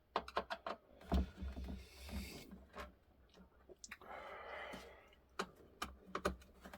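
Small clicks and taps of clock parts and hand tools being handled on a workbench, with a low thump about a second in and a short scraping rustle about four seconds in.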